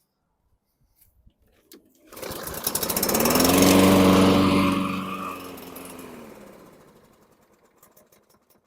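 Husqvarna LC221A mower engine starting about two seconds in, running briefly, then sagging in pitch and dying out: it starts and then stalls, which the owner takes for fuel starvation.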